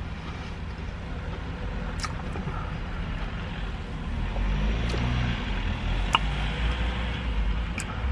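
A person chewing a mouthful of burger, with a few sharp clicks of the mouth, over a low vehicle rumble that swells about halfway through.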